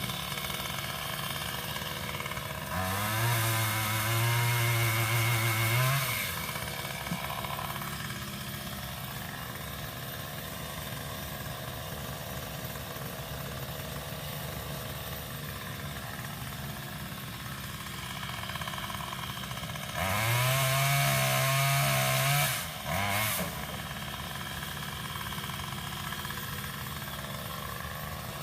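Pole saw (power limb cutter) revved up twice for about three seconds each, its pitch rising as it speeds up and falling as it stops, with a short extra blip after the second run, over a steady engine running throughout.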